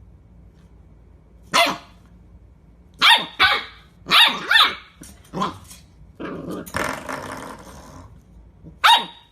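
A dog barking in short sharp barks, each falling in pitch, about seven times, with a rough growl between barks from about six to eight seconds in.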